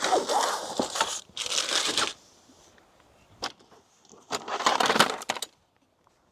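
Rustling and crinkling, like packaging or material being handled, in three bursts of about a second each, with a single sharp click between the second and third.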